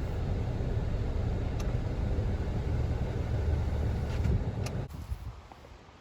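Low, even rumble of noise with no clear tone, strongest in the bass, that drops away sharply about five seconds in; a few faint clicks.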